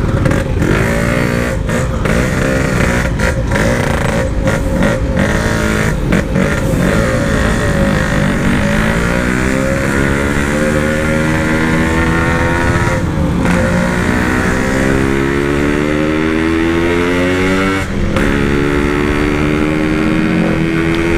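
Yamaha RX-King 135 cc two-stroke single on a loud aftermarket exhaust with a PWL carburettor, ridden under way. It runs unevenly with brief throttle dips at first, then accelerates hard, its pitch rising, dropping with an upshift at about 13 s and again at about 18 s, and climbing once more.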